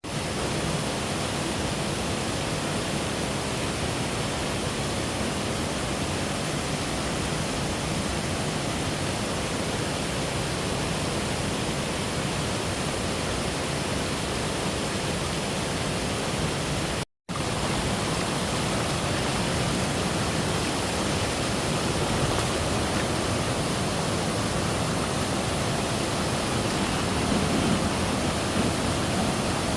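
Steady rushing roar of a waterfall, broken once by a brief silent gap partway through.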